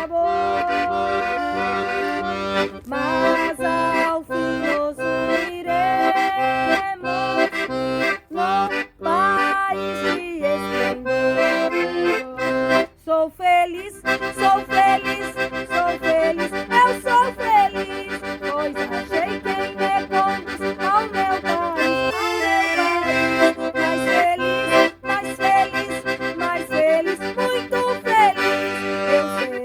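Accordion playing a hymn melody over held chords in an instrumental passage between verses, with a short break about thirteen seconds in.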